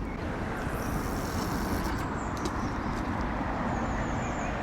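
Steady low rumble of a distant engine or motor traffic.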